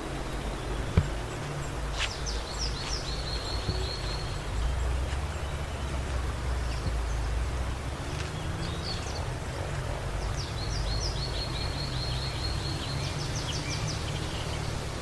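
A songbird singing runs of quick, repeated high notes, twice, over a steady low rumble. There is one sharp click about a second in.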